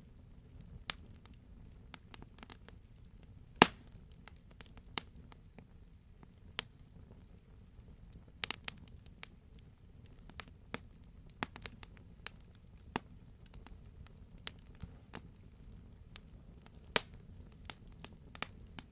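Campfire crackling: irregular sharp pops and snaps over a low, steady rumble, with the loudest pop about three and a half seconds in.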